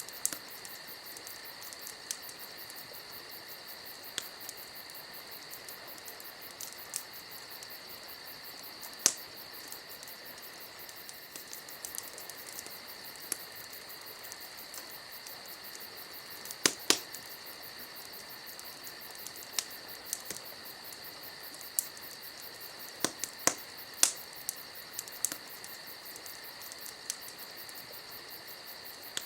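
Campfire crackling, with irregular sharp pops and snaps, a cluster of the loudest about two-thirds of the way through. Under it, a steady high trill of insects.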